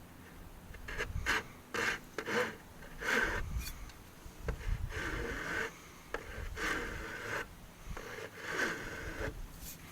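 Hand tool working wood in about nine uneven rubbing strokes, some short and some longer, like rasping or sanding.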